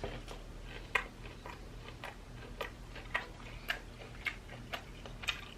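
Chewing crispy fried chicken tenders, with sharp crunches at a steady pace of about two a second.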